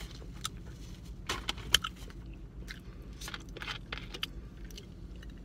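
Close-miked mouth sounds of a person chewing a burger: a string of irregular wet smacks and clicks, the loudest about a second and a half in, over a steady low hum.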